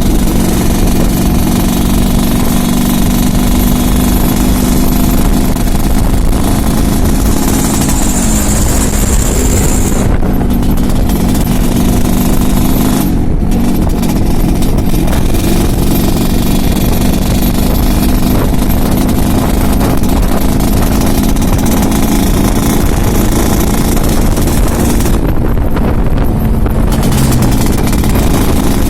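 Yamaha RX-King's two-stroke single-cylinder engine running steadily with a rough, rattly note, called 'ngorok' (snoring). Its pitch dips briefly a few times.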